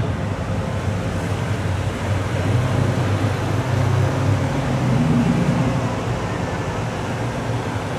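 Engine of a custom 1955 Chevrolet two-door running at low speed as it rolls slowly past in traffic: a low, steady exhaust note that grows a little fuller around the middle, over the sound of other cars' engines and tyres.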